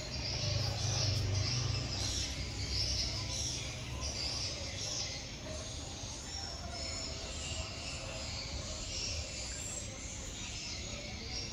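Small birds chirping repeatedly in the background, over a low rumble that is strongest in the first couple of seconds.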